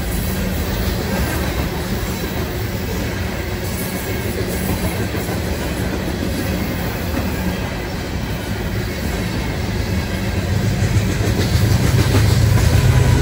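Loaded coal train passing close by: the cars' steel wheels rumble steadily over the rails with light clicking at the rail joints. Over the last couple of seconds a locomotive's diesel engine grows louder as it approaches.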